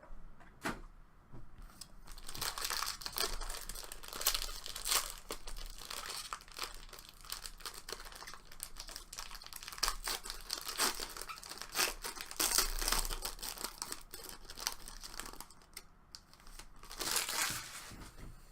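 Plastic card packaging crinkling and tearing as it is handled and opened, in an irregular run of crackles with a quieter gap and a last burst near the end.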